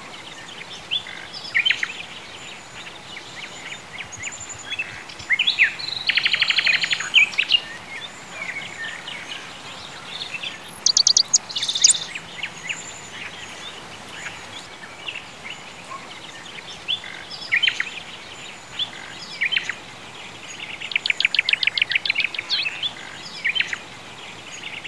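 Several birds singing and chirping over a faint steady hiss, with fast rattling trills about six seconds in and again near the end, and a run of high chirps around eleven seconds in.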